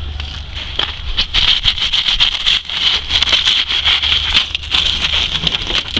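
Footsteps crunching on light snow, an irregular run of crackles, with wind rumbling on the microphone.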